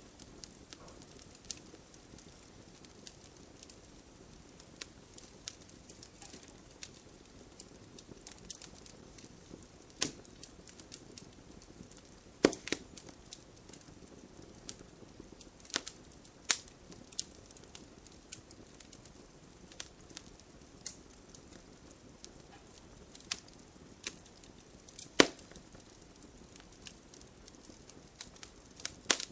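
Bonfire crackling: scattered sharp snaps and pops of burning wood, several much louder than the rest, over a steady low hiss.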